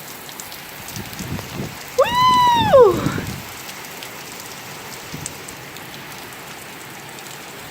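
Heavy rain pouring steadily. About two seconds in comes a single high squeal, lasting about a second, that rises and then falls in pitch.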